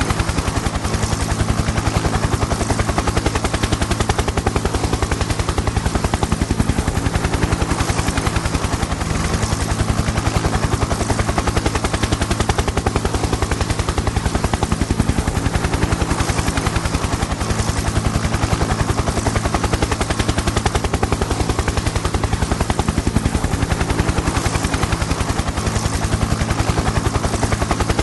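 Helicopter in flight: a rapid, steady chop of the rotor blades over a steady low engine drone.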